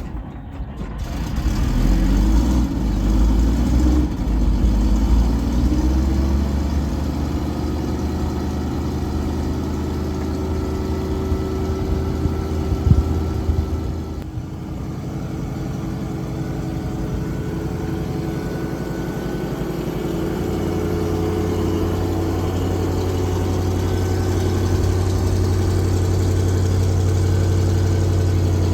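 FV432 armoured personnel carrier's engine running: it comes up loudly in the first couple of seconds with shifting pitch, then settles into a steady low idle.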